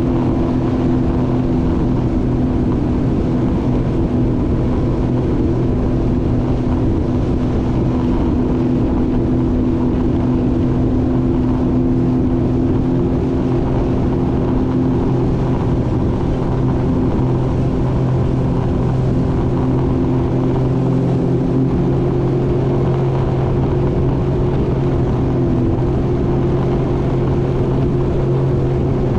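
Jet ski engine running at a steady cruising speed, its pitch holding constant, over a continuous rush of water and wind.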